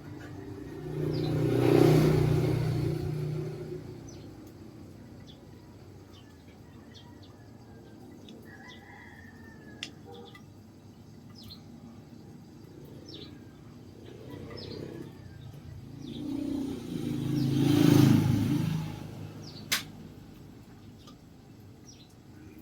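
Motor vehicle engine noise swells up and fades away twice, about fifteen seconds apart. Between the swells, small birds chirp, and there is a sharp click near the end.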